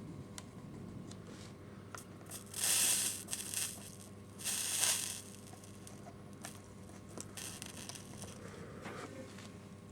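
Soldering iron sizzling on fluxed solder under the rails of flex track: two crackling hisses of about a second each, with a fainter third one later.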